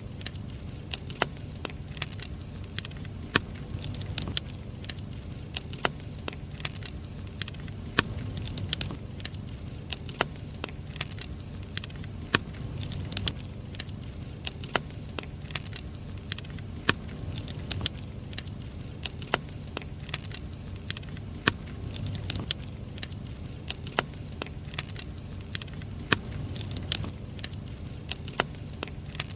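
Firewood burning in a campfire, crackling with frequent sharp, irregular pops over a low steady rumble.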